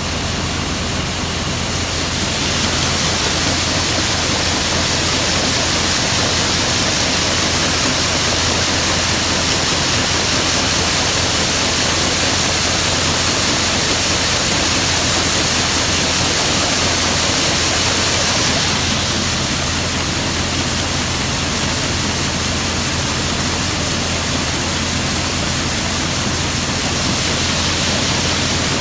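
An engine running steadily under a loud, even rushing hiss. The hiss grows stronger about two seconds in and drops back a little after about eighteen seconds.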